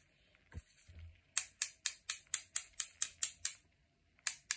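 A paintbrush tapped in a quick run of sharp taps, about four a second, flicking watercolour splatter onto the paper. The taps start after a quiet first second or so, stop for a moment, then begin again near the end.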